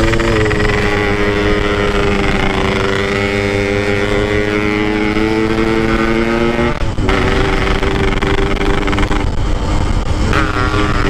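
Motorcycle engine running under load while being ridden, its pitch creeping slowly upward for about seven seconds, then dropping suddenly and holding steady again.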